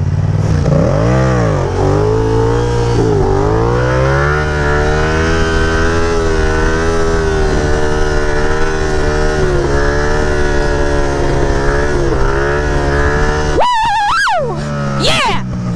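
Yamaha FZ-07 stunt bike's parallel-twin engine revved up as the front wheel lifts, then held at steady revs through a long wheelie. About thirteen and a half seconds in, the throttle is shut and the engine note drops away suddenly.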